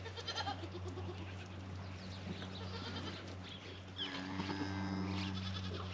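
Goats bleating, with one long, drawn-out bleat starting about four seconds in.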